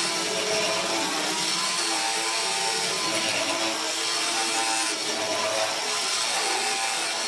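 Electric power tool running steadily while cutting or working wood, its motor tone wavering slightly.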